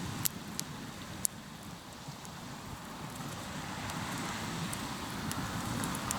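Hardwood campfire crackling, with a few sharp pops, over a steady rushing wash of waves on the shore that builds toward the end.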